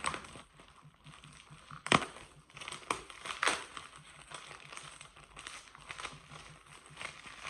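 Packaging being crinkled and pulled off a head of broccoli, a crackly rustle with a few sharper crackles around two to three and a half seconds in.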